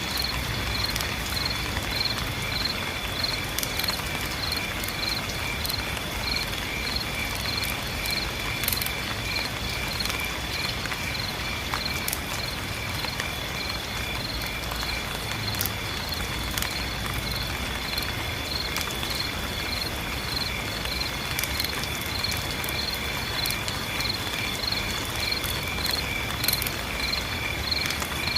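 Insects chirping in a steady, regular pulse over a continuous high-pitched drone, with scattered drops of rain ticking and a low rumble underneath.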